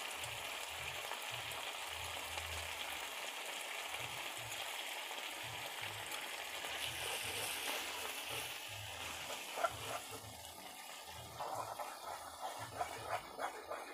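Tomato-chilli sambal frying in oil in a steel wok, a steady soft sizzle. From about eleven seconds in, a metal spoon scrapes and clicks against the wok as the sambal is stirred.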